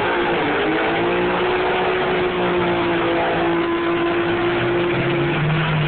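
Drag racing car engines running loud, holding a steady pitch after a slight rise in the first second.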